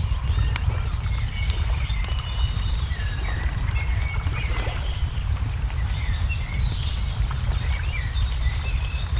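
Ambience mix of a crackling wood fire giving off sharp scattered pops, with small birds chirping in short rising and falling calls, over a steady low rumble.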